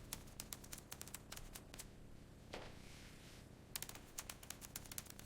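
Faint, irregular clicks of computer keyboard typing.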